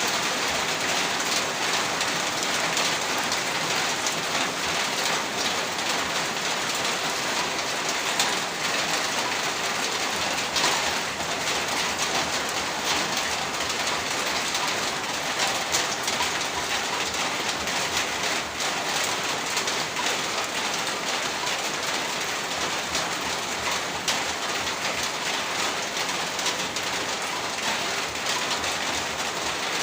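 Heavy rain falling steadily, a dense even hiss of rain on surfaces with many sharp individual drop ticks.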